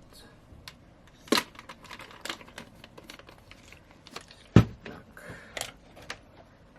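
Small handling noises on a workbench during phone repair: scattered light clicks, taps and crinkles, with one sharper knock a little past the middle.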